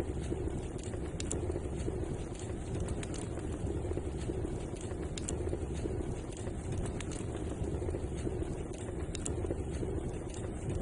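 Wood fire crackling: scattered sharp pops at irregular moments over a steady low rushing.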